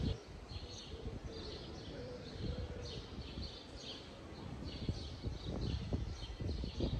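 Small birds chirping in short, repeated calls over quiet outdoor ambience, with irregular low thumps growing more frequent in the second half.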